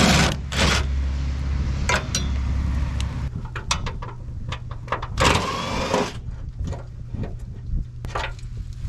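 Tool work on the fuel filler neck fasteners: a run of sharp clicks and clanks, with a steady low hum through the first three seconds and a longer scraping burst about five seconds in.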